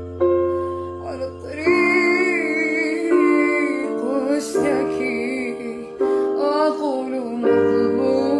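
Music: a woman singing a wavering, ornamented melody over sustained keyboard chords that change every second or two.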